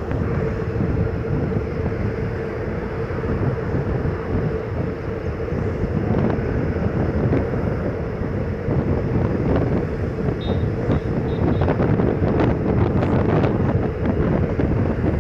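Indian Railways ICF passenger coach running at speed: wind rushing over the microphone over a steady rumble of wheels on rails, with a faint steady hum and occasional clicks.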